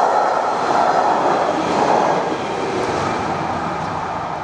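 SNCB InterCity passenger train passing over a level crossing, a loud rushing rumble of wheels on rails that fades after about two seconds as the last coach goes by.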